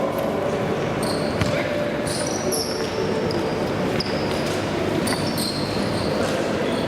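Futsal play in a sports hall: the ball struck and bouncing on the court with a few sharp knocks, shoes squeaking briefly on the floor, and players calling out, all echoing in the hall.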